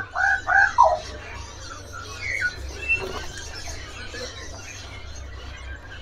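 Caged birds calling: three short squealing notes that rise and fall in the first second, then a brief falling chirp and a thin high note around two to three seconds in, over a steady low hum.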